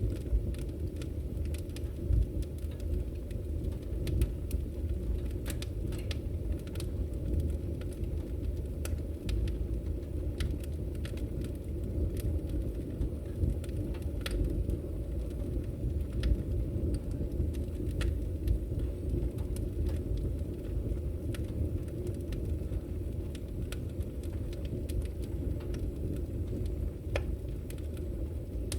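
Log fire burning in a fireplace: a steady low rumble of the flames with scattered, irregular sharp crackles and pops from the burning wood.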